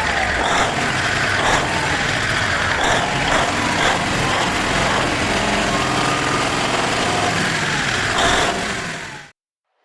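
Cummins KTA38 diesel engine running steadily, its sound cutting off abruptly near the end.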